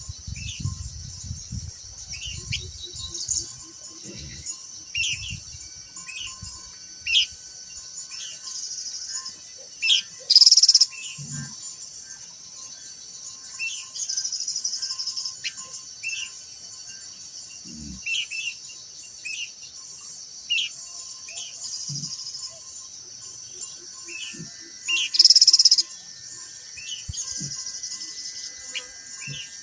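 Khướu lùn, a small babbler, calling with short repeated chirps about once a second over a steady high insect drone. Two louder, brief high bursts come about ten seconds in and near the end.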